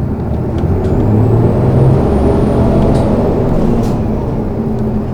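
City bus engine and drivetrain heard from inside the cabin, building in loudness over the first couple of seconds and then easing off, with a faint high whine across the middle.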